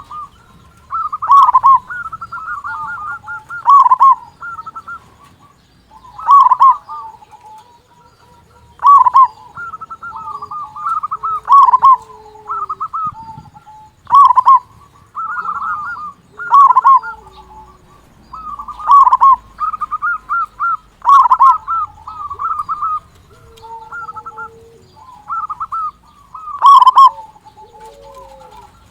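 Zebra dove (perkutut) cooing continuously: rapid strings of short, soft coo notes, with a louder burst about every two to three seconds.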